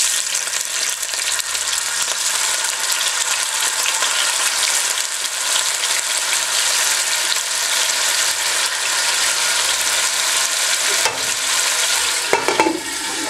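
Chicken tenderloins searing in very hot grease in a frying pan: a loud, steady sizzle that starts suddenly as the first pieces go into the oil.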